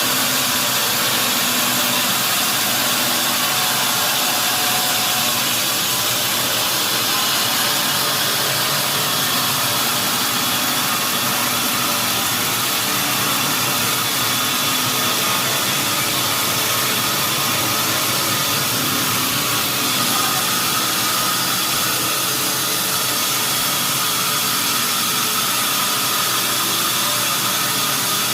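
Sawmill machinery running steadily: a loud, even saw and motor noise that does not break or change.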